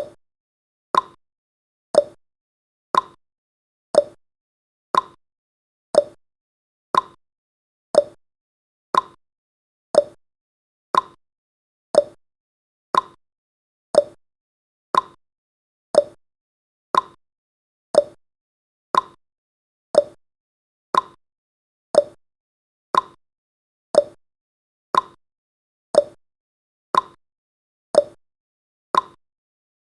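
Countdown timer's ticking sound effect: a clock-like tick-tock, one sharp click each second, the clicks alternating slightly between a higher and a lower pitch.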